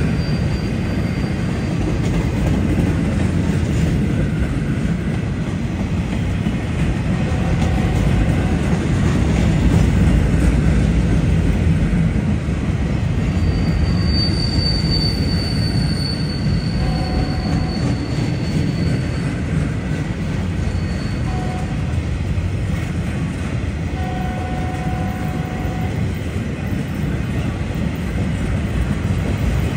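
Empty freight cars of a rail train rolling past with a steady low rumble. A thin, high wheel squeal rises for about five seconds near the middle, followed by a few shorter, lower squeals.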